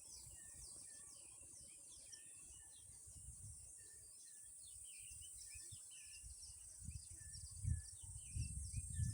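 Wild birds calling in a wetland: many short chirps, with one short call note repeated about once a second. A steady high hiss runs underneath, and low rumbling rises near the end.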